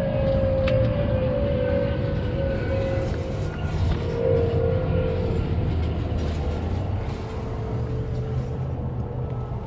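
A 350 V8 in a 1957 Chevrolet pickup idling with a steady low rumble. Over it runs a thin whine that slowly drops in pitch.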